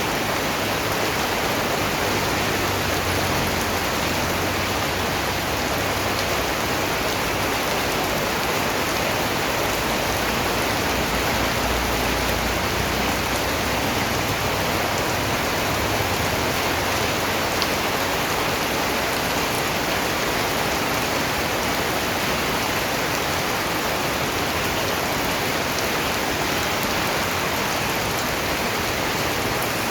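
Steady rain falling, an even hiss of many raindrops with no let-up.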